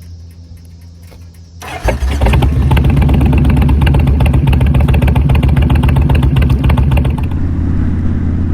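Kawasaki VN 1600 Mean Streak's V-twin firing up through Vance and Hines exhaust pipes: it catches suddenly about two seconds in and then runs loud and steady, its note easing slightly about seven seconds in.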